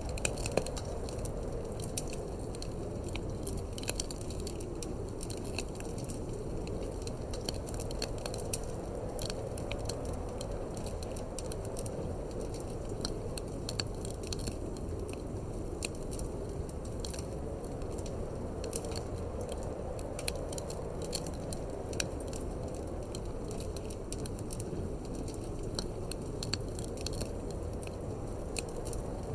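Wood fire crackling in a fireplace, with frequent irregular sharp pops, over a steady low rush of wind.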